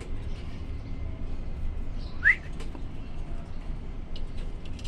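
A cockatiel gives one short rising whistle about two seconds in, over a steady low background hum.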